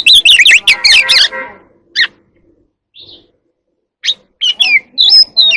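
Oriental magpie-robin singing: a rapid jumble of loud notes for the first second and a half, a short pause, then clear whistled phrases sliding up and down near the end.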